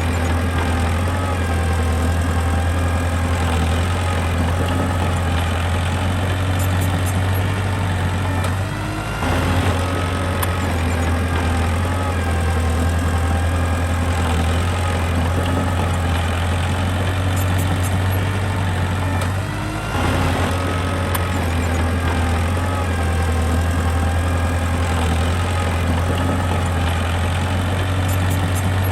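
Mini bulldozer's diesel engine running steadily under load, with a brief drop in engine sound about 9 seconds in and again about 20 seconds in.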